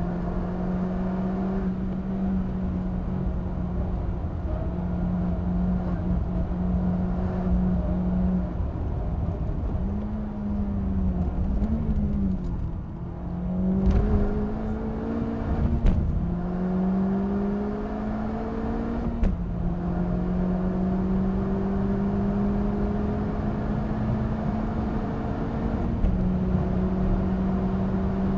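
Honda Civic Type R FK8's turbocharged 2.0-litre four-cylinder, heard from inside the cabin under hard acceleration on track. Its note climbs slowly, then falls and wavers as the car brakes and downshifts for a slow corner about ten seconds in, with two sharp knocks. It then pulls hard again, with an upshift near the end.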